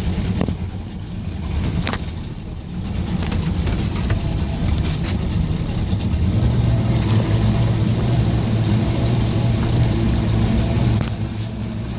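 Suzuki DT 225 two-stroke V6 outboard motor running as the boat gets under way, its low engine note growing louder about a third of the way in and then holding steady.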